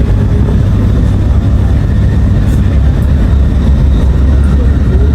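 Passenger train running through a tunnel, heard from inside the carriage: a steady, loud, low rumble.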